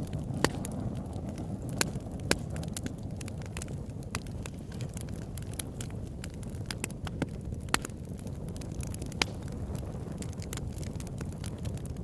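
Campfire burning: a steady low rush of flames with irregular sharp crackles and pops, a few of them much louder than the rest.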